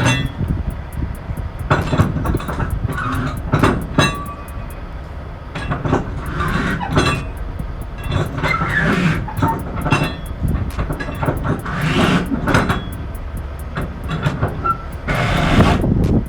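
Heavy truck running with a steady low rumble, overlaid by many irregular metallic clanks, knocks and rattles.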